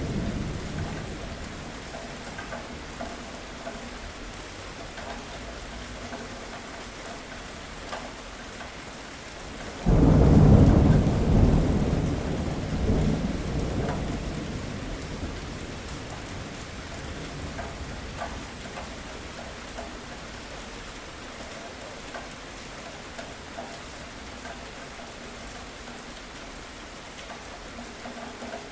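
Steady rain falling, with a sharp clap of thunder about ten seconds in that rumbles on and slowly dies away over several seconds.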